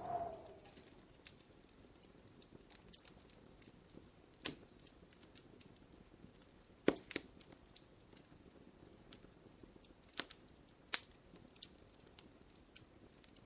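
Wood fire crackling in a fireplace: irregular sharp pops and snaps over a faint steady hiss, with the loudest pops about four and a half, seven, ten and eleven seconds in.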